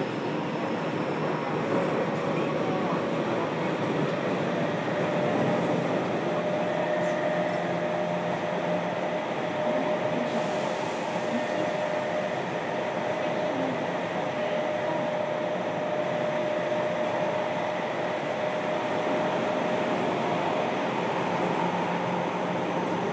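Interior running sound of a JR Kyushu 303 series electric multiple unit, heard inside a motor car: steady wheel and rail noise with a steady tone running through it. The hiss rises briefly about ten seconds in.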